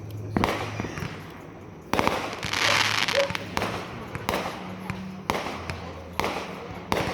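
Fireworks going off: a run of sharp bangs roughly a second apart, each trailing into a rolling echo, with a longer crackling hiss about two and a half seconds in.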